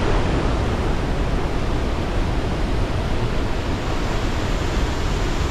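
Steady, loud rushing roar of Victoria Falls, the water crashing into the gorge, with no breaks or changes.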